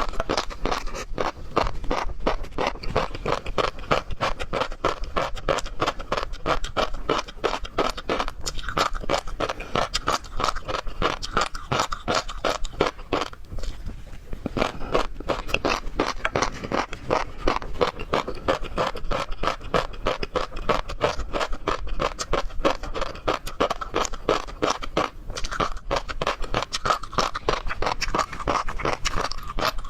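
Close-miked eating of seafood: continuous rapid, wet chewing and crunching with many small clicks, briefly easing twice.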